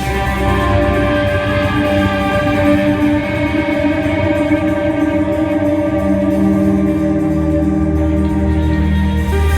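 A live band playing, with long held guitar notes over a steady bass.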